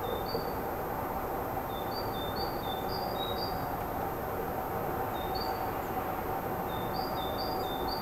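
A small songbird singing a repeated two-note phrase, short high and slightly lower notes alternating in runs, over a steady background hum.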